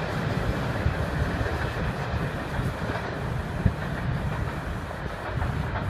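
A passenger train's wheels rumbling and clacking over the rail joints as it moves away, with one sharper click a little past halfway.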